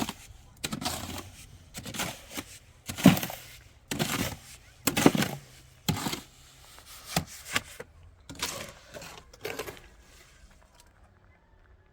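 A series of heavy knocks or chopping strikes, about one a second, that stop near the end.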